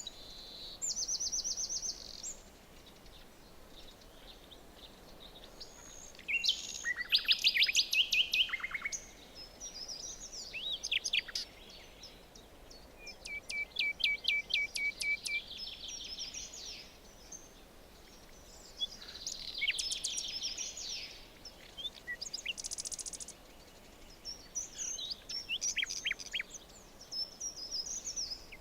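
Several songbirds singing in a forest: bursts of rapid high trills and chirps every few seconds over a faint steady background hiss.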